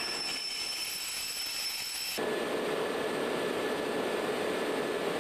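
Car-carrier wagons of a motorail train rolling slowly past with a thin, high wheel squeal. About two seconds in, the sound cuts abruptly to a steady rushing noise with a low hum.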